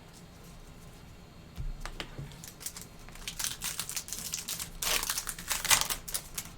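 Crinkling of a trading-card pack wrapper and cards being handled. Irregular clicks and rustles start about a second and a half in and grow denser and louder in the second half.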